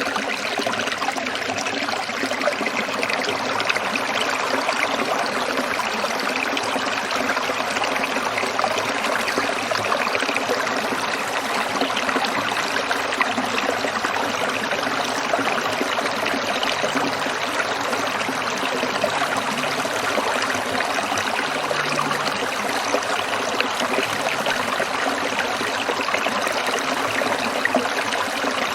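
Stream water trickling and splashing over stones, a steady, even babble.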